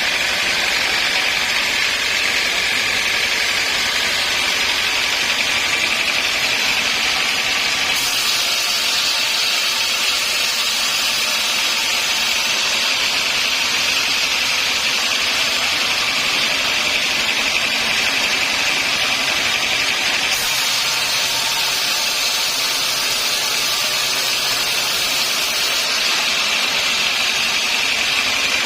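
Sawmill saw running steadily with a high, hissing whine; its tone shifts abruptly a few times.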